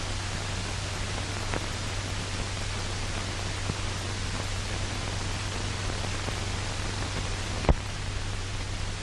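Steady hiss with a low hum from an old film soundtrack, with a sharp click near the end and a fainter one about one and a half seconds in.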